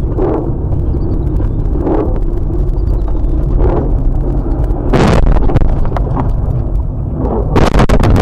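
Heavy low rumble of a vehicle driving, picked up by a dashcam microphone, with swelling surges of noise, a sudden loud crunching burst about five seconds in and a run of sharp cracks near the end.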